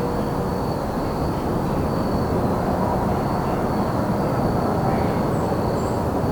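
Crickets trilling in one steady, continuous high note over a loud, steady low rumble of distant traffic. A couple of faint, short bird chirps come near the end.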